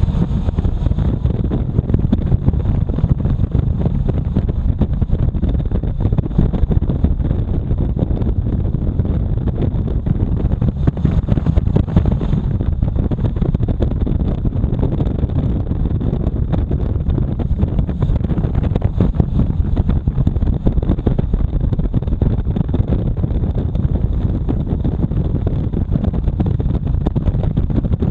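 Steady rush of wind buffeting the microphone of a camera on a moving motorcycle, mixed with engine and road noise.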